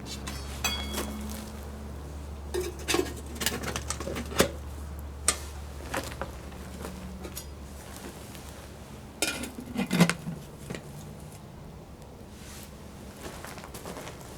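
Metal cookware and utensils clinking and clattering in a string of sharp knocks, the loudest cluster about ten seconds in.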